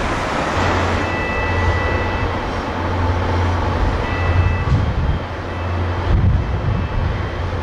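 A train going by: a steady loud rumble with a low engine drone, and faint high-pitched tones coming and going.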